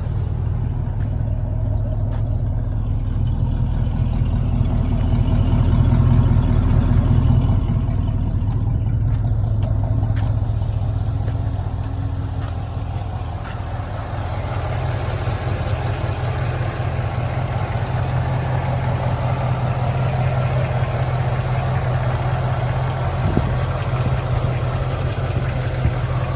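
1970 Chevrolet Nova SS V8 engine running at idle just after start-up, steady, swelling a little louder around six to eight seconds in.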